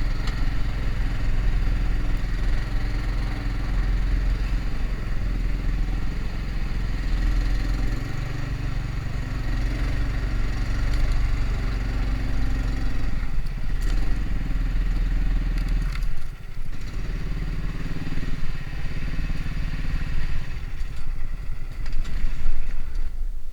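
Engine of a homemade karakat running under way, its pitch shifting a few times and briefly dropping about two-thirds of the way through.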